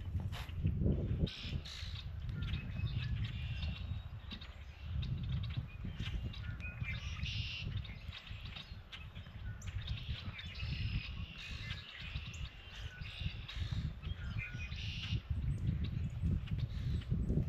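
Wild birds chirping and calling in short, scattered bursts, over the low rumble of wind on the microphone.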